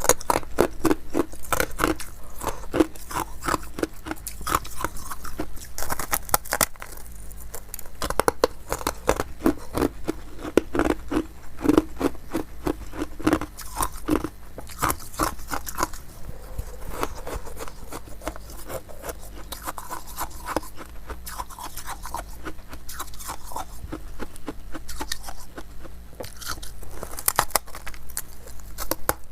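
Close-up crunching and chewing of hard ice, with rapid crisp cracks in repeated runs of bites.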